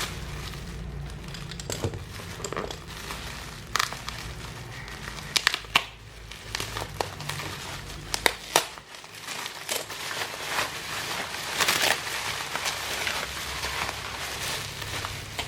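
Plastic packaging crinkling and rustling as a service parcel is unwrapped by hand, with scattered sharp clicks and taps.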